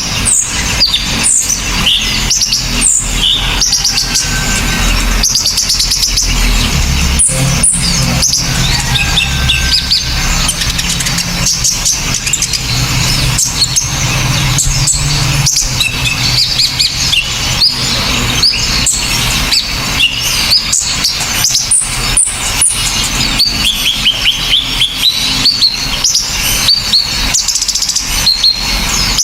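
A dense medley of recorded songbird calls: rapid sharp, high chirps and short whistled notes following one another without pause, from a combination of small birds such as the kolibri ninja sunbird, srindit hanging parrot, kinoi and woodpecker. A low rumble sits underneath for several seconds in the first half.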